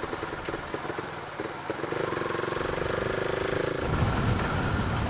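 Motorcycle engine running through a JR Racing aftermarket exhaust. The revs come up and hold steady about two seconds in, then the exhaust drops to a louder, deeper rumble about four seconds in.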